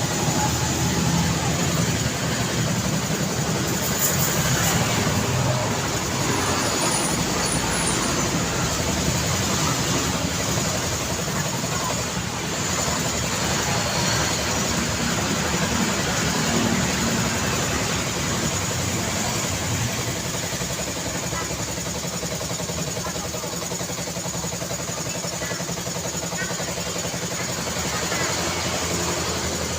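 Road traffic: cars and motorcycles passing in a continuous wash of engine and tyre noise, easing slightly in the second half.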